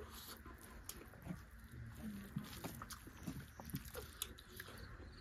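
Close-miked eating sounds: people chewing chicken curry and rice, with soft wet mouth clicks and lip smacks scattered throughout.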